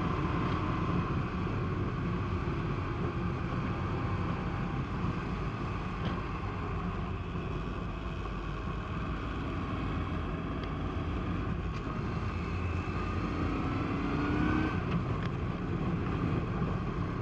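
Honda PC800's V-twin engine running steadily as the motorcycle rides, with wind rushing over the microphone; the engine note rises briefly about three-quarters of the way through as it accelerates.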